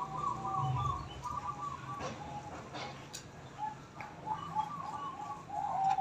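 A bird calling in runs of quick, repeated notes, one run in the first second or so and another from about four seconds in.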